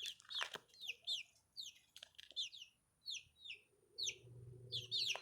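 Young chickens peeping: a string of short, falling chirps, several a second, from a few birds at once. A low hum comes in about four seconds in.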